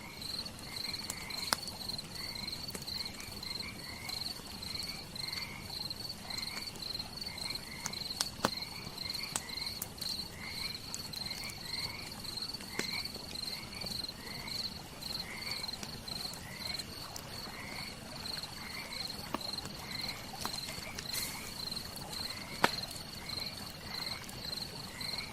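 Crickets trilling steadily, with a second, lower chirping call repeating about once a second. A crackling campfire throws a few sharp pops every several seconds.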